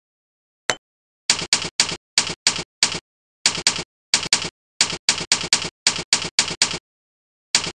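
Key-press sound effects played by the Jingle Keyboard program: about twenty identical short sounds, one for each keystroke, coming in quick runs of two to four like typing, with dead silence between them.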